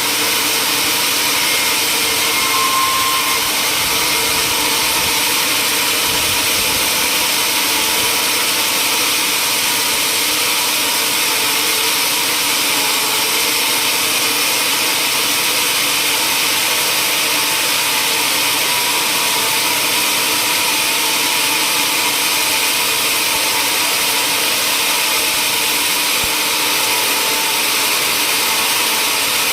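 Woodworking machine running steadily, with a loud, even hiss of wood being cut or worked that does not change.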